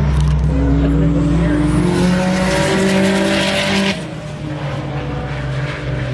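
Race car engine at full throttle, its pitch rising steadily as it accelerates. The sound drops suddenly about four seconds in to a quieter, lower engine note that carries on.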